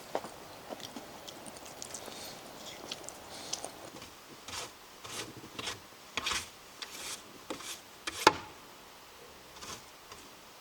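Quiet small handling sounds: light rustling with scattered clicks and knocks over a faint hiss, and one sharper click about eight seconds in.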